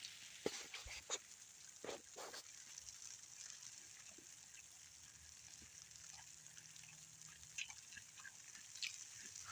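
Fresh snow being eaten: a few soft crunches in the first couple of seconds, then near silence.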